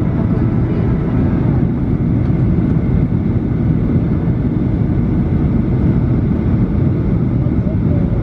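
Steady cabin noise inside a Boeing 737-800 in flight, the sound of its CFM56-7B engines and the airflow over the fuselage, mostly low in pitch and even throughout.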